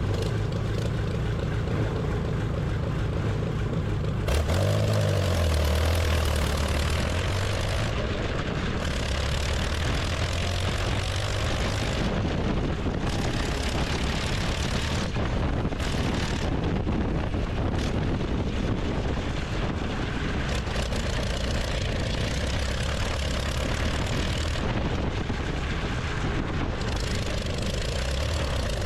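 Curtiss OX-6 100-horsepower aero V8 in a stripped-down 1911 K-R-I-T racer, running steadily through short stub exhausts. It swells briefly louder about four to five seconds in. Being low-compression, it is not very loud for its size.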